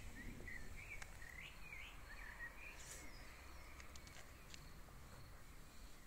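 Faint outdoor quiet with a bird giving a series of short chirps during the first two and a half seconds, then a few light ticks.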